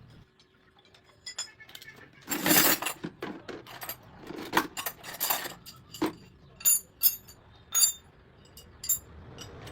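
Metal clanking and scraping, then several sharp, ringing metallic clinks in the second half.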